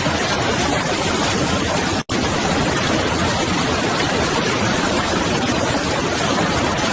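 Steady, loud hiss of noise, even from low to high pitch, without any tone or rhythm, cut off to silence for an instant about two seconds in.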